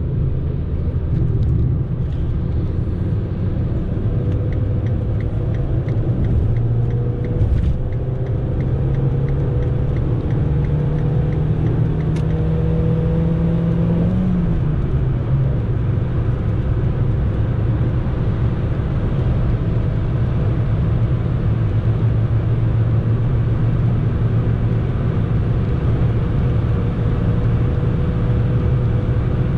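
Fiat Panda accelerating hard with its road noise. The engine note climbs steadily until an upshift about halfway through, where it drops sharply, then runs on at a lower, fairly steady pitch.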